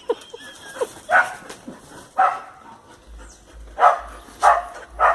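Dogs barking in play, five loud, separate barks about a second apart, with a couple of short yips just before the first bark.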